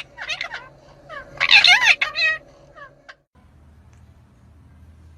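Parrot calling: a run of short, pitched squawks and chirps, loudest in the first two and a half seconds, that cuts off suddenly about three seconds in.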